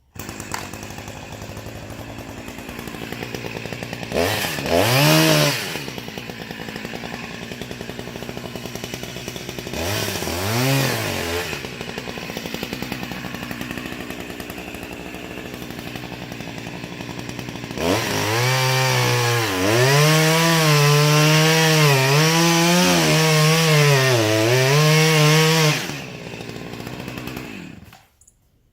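Chainsaw running at a fast idle, revved up briefly twice, then held at full throttle for about eight seconds while its pitch repeatedly dips and recovers as it bogs under load in the cut through the balsam fir trunk. It then drops back to a lower speed and stops abruptly.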